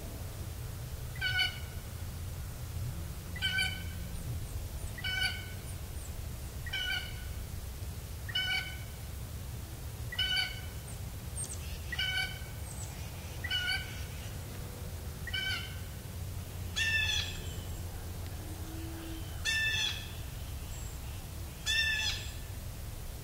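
A bird calling over and over: about a dozen short, harsh calls roughly every second and a half to two seconds, the last few louder.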